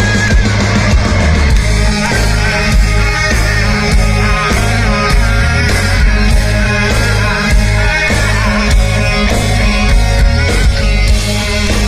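Live heavy rock band playing at full volume: distorted guitars, bass and drums, with a vocal line.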